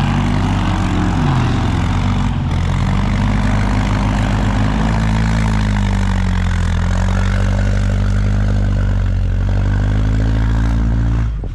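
Heavy machine's engine running close by, its revs rising and falling a few times, then cutting off abruptly near the end.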